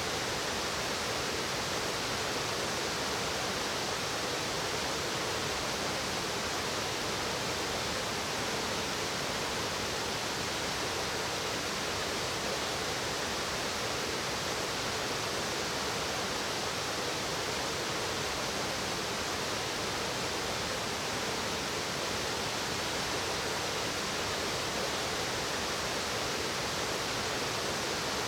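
Mountain stream water rushing steadily over rocks, a constant, even sound with no breaks.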